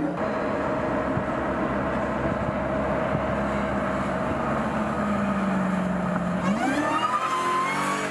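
Supercharged 6.2-litre V8 of a Dodge Charger SRT Hellcat Redeye running at a steady pitch, then revving up sharply about two-thirds of the way in as the car accelerates, with a high whine rising along with it.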